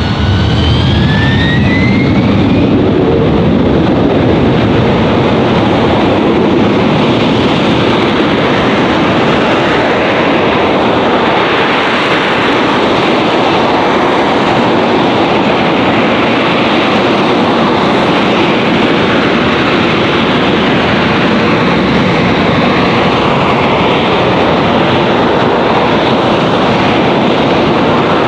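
AV-8B Harrier II's Rolls-Royce Pegasus turbofan at high power: a loud, steady jet roar, with a whine that rises in pitch during the first couple of seconds.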